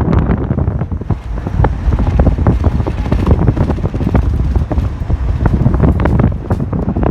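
Wind buffeting the microphone in loud, irregular gusts over the low rumble of a moving bus.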